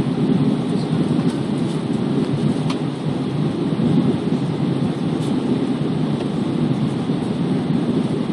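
Steady low rumble of airflow and jet engines heard inside an Airbus A320 passenger cabin during descent, with a few faint clicks.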